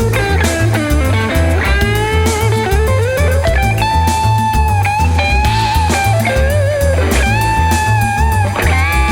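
Electric lead guitar playing sustained, bending melody notes over a steady bass and backing track, in a blues-rock instrumental.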